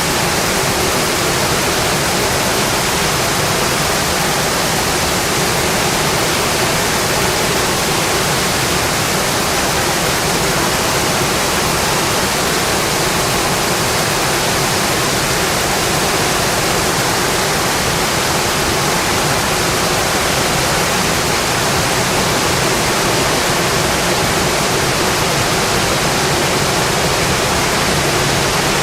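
Steady, dense rainfall hissing against a windowpane, even and unbroken.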